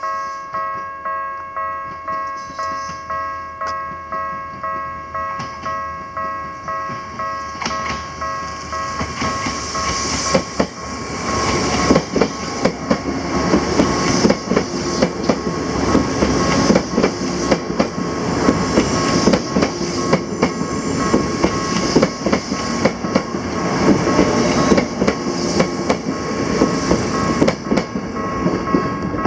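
A warning bell dings about twice a second. From about nine seconds in, an Izukyu 2100 series 'Resort 21' electric train passes close by, growing loud, its wheels clicking over the rail joints and drowning out the bell.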